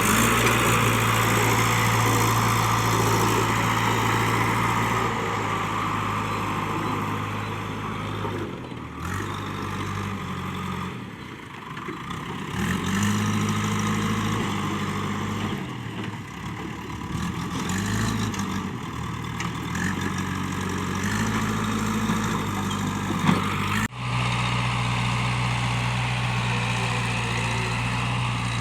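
JCB 3DX backhoe loader's diesel engine running under work, its revs dropping and rising again several times. There is an abrupt break about 24 s in, after which it runs steadily.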